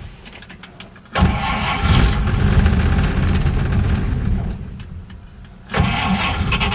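A 1950 Oldsmobile 76's flathead six-cylinder engine cranking and firing on a shot of gas poured into the carburetor, because the sediment bowl is empty and fuel isn't reaching it. It starts about a second in, runs for about three seconds, then dies away, and a second bout of cranking and firing starts near the end.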